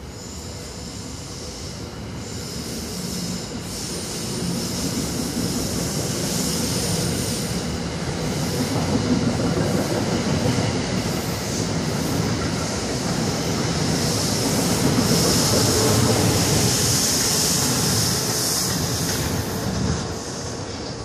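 Old diesel locomotives rolling slowly round a curve: steel wheels squealing and clattering on the rails over the diesel engine running, getting steadily louder until a drop near the end.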